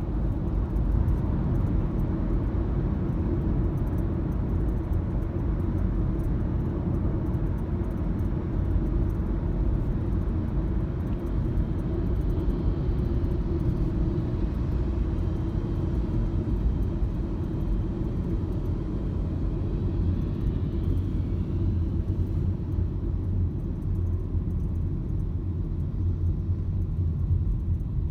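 A car on the move: steady low rumble of road and engine noise, with faint scattered ticks over it.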